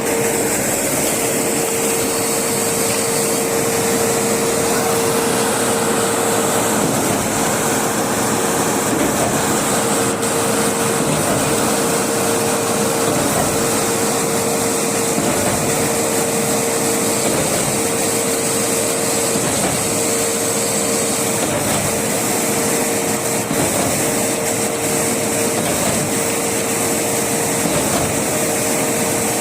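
A machine running steadily: a constant whine over a loud, even noise, with the whine dipping briefly about every two seconds.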